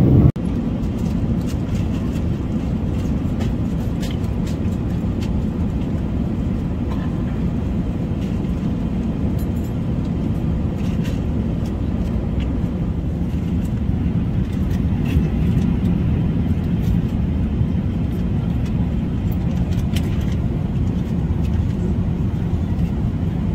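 Steady low rumble of an Airbus A380 airliner cabin in flight, with a few faint clicks.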